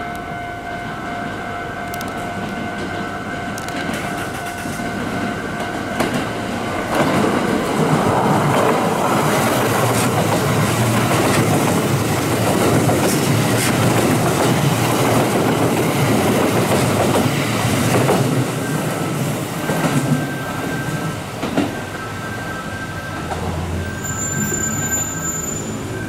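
Kintetsu limited express train passing at speed: loud rumble of motors and wheels with clickety-clack over rail joints for about ten seconds, after a steady ringing warning tone from a level-crossing alarm at the start. Near the end a second train comes in with a high wheel squeal.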